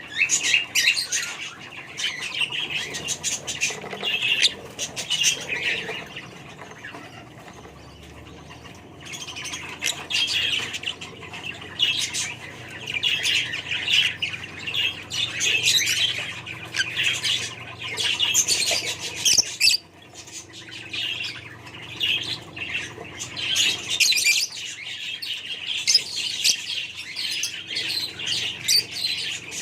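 A flock of caged budgerigars chattering with rapid chirps and squawks, with a quieter spell about six to nine seconds in.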